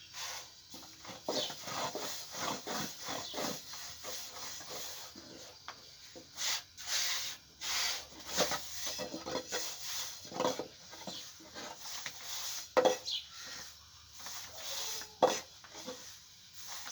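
Irregular rubbing and scraping with a few sharper knocks, the sound of something being handled and worked by hand.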